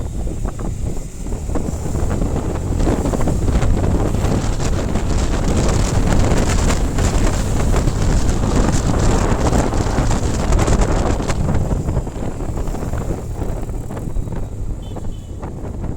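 Motorcycle riding, with heavy wind buffeting the microphone over the rumble of the ride; the gusts swell in the middle and ease toward the end.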